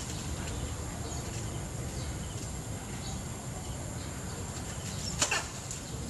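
Small birds giving scattered faint chirps in a palm tree over a low steady rumble, with one brief sharp, louder sound about five seconds in.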